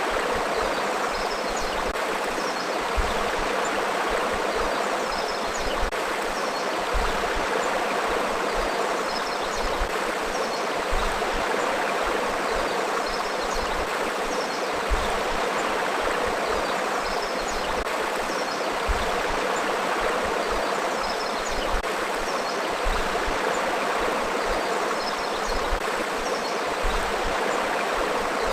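River water flowing steadily over rocks, a continuous even rush of a forest stream.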